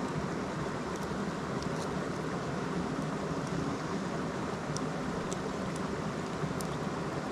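Steady rushing of a river flowing, with a few faint light clicks over it.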